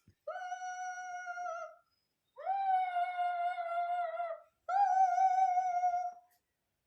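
A pet dog howling three times, each howl about one and a half to two seconds long and held at an even pitch, with short pauses between them.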